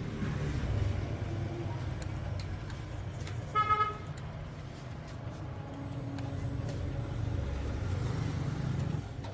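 Low, steady rumble of road traffic, with one short vehicle horn toot about three and a half seconds in.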